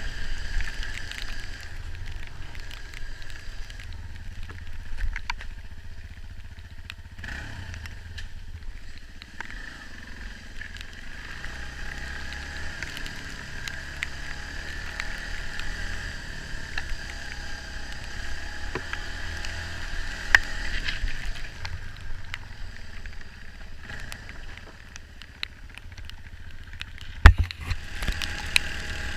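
Dirt bike engine running as the bike moves along a rough trail, with a constant low rumble and scattered knocks and clatter. One sharp, loud knock comes near the end.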